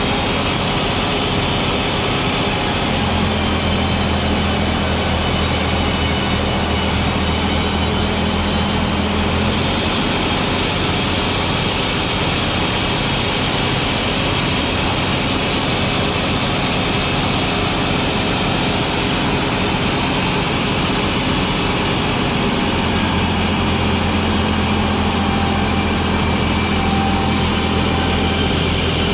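Engine-driven sawmill running steadily. A steady low hum and a high hiss come in for two long stretches, the first at about three seconds in and the second from about twenty-two seconds in, as the saw passes through the wood.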